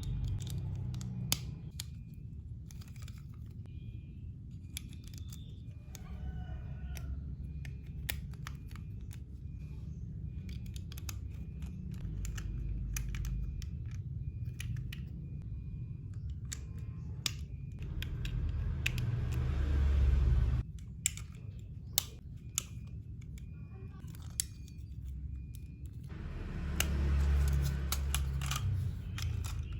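Plastic building bricks clicking and snapping as they are handled and pressed together, with two stretches of rustling and a steady low hum underneath.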